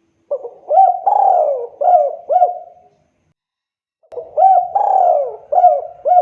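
Spotted dove cooing: two calls of about five low coo notes each, the second call starting about four seconds in.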